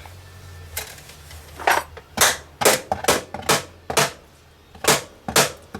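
A series of sharp knocks, about two a second, starting a second and a half in, over a low steady hum.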